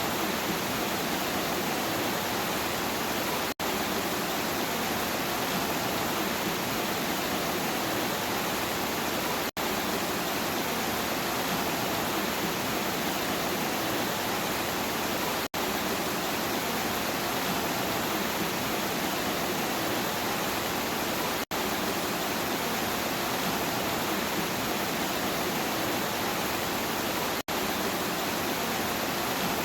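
Steady rain, an even hiss that cuts out for an instant about every six seconds.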